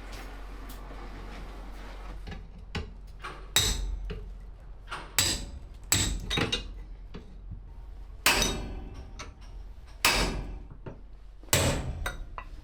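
A series of about six sharp knocks, like hammer blows, irregularly spaced about one to two seconds apart, each ringing briefly, over a low steady hum.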